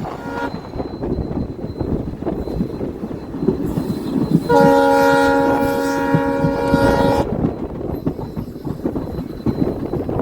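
WDP4B diesel locomotive's horn: a short blip right at the start, then one long blast of about three seconds in the middle, over the steady rumble and clatter of the moving train.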